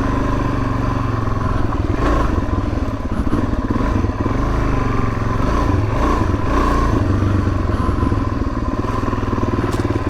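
Suzuki DR-Z400S's single-cylinder four-stroke engine running steadily as the bike is ridden along a dirt trail, its pitch shifting a little with the throttle. A few brief knocks and clatter from the bike over bumps are mixed in.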